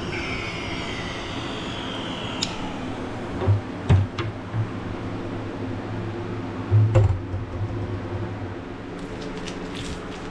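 Maxant 3100P honey extractor spinning frames of honey, a steady mechanical hum with a whine that falls in pitch over the first couple of seconds. A few dull thumps come in the middle, and light clicks near the end.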